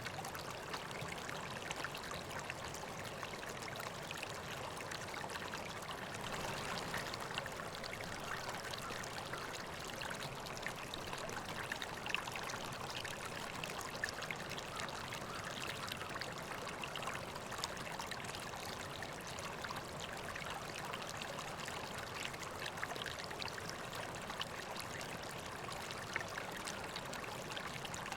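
River water flowing steadily over stones, a continuous babble with small splashes and trickles.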